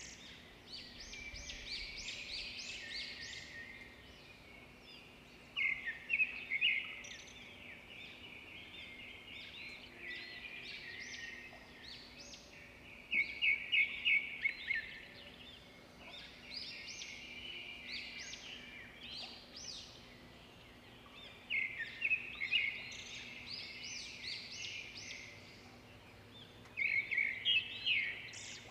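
Small songbird singing: fast, high chirping phrases in bouts that come back every several seconds, with softer twittering between them.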